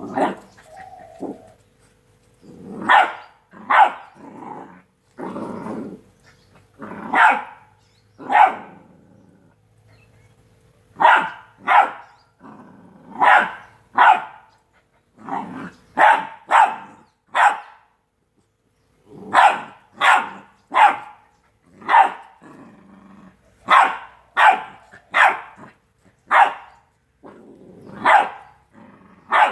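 Two-month-old Rottweiler puppy barking again and again in short, separate barks, mostly in quick runs of two to four, with a few longer, lower growly sounds in between.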